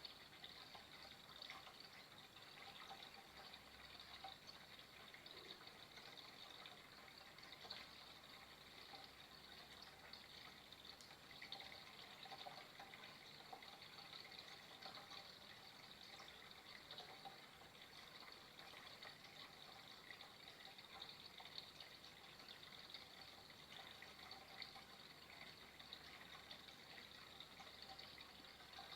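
Flowing water trickling and splashing steadily and faintly, with small irregular splashes in a continuous bright hiss.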